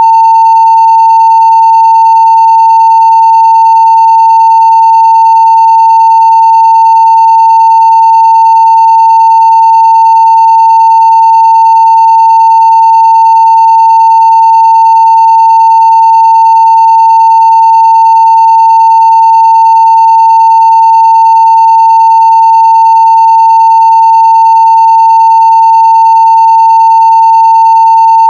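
Continuous 900 Hz sine-wave test tone at full scale (0 dB), held perfectly steady and loud, with faint higher overtones.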